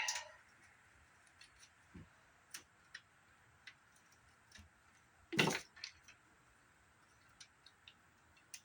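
Scattered light clicks and taps of parts being handled while a CRT monitor is taken apart, with one louder knock about five and a half seconds in.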